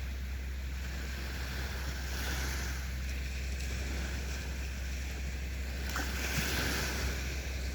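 Small sea waves washing onto a beach, the hiss of the surf swelling twice and easing, over a steady low rumble.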